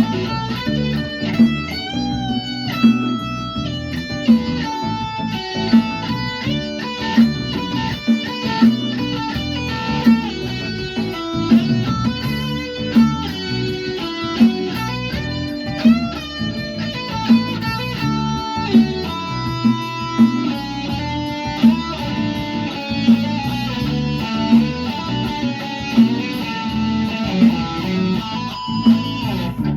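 Guitar music, melodic picked and strummed lines over a regular beat that peaks about every second and a half.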